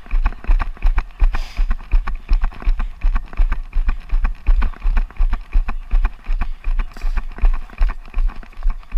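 Running footsteps at a steady pace, about three strides a second, each landing a heavy low thump with a short crunch.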